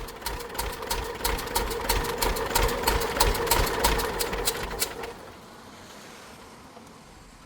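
Car engine running with a rapid, even ticking, then cutting out about five seconds in.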